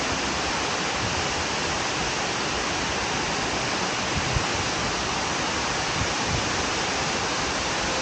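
Steady rush of water falling at Shiraito Falls, a wide curtain waterfall.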